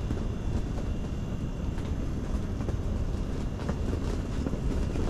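Strong wind buffeting an ice fishing hut, a steady low rumble with faint scattered ticks.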